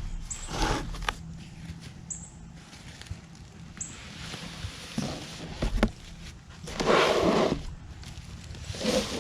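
Cardboard box being opened and its packaging handled: rustling and scraping in several short bursts, the longest and loudest about seven seconds in.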